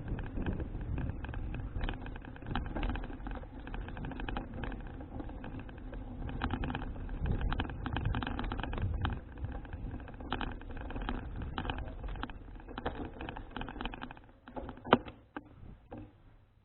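Folding bicycle being ridden: road and wind rumble with frequent irregular rattling clicks. It dies down over the last few seconds, with one sharp click near the end.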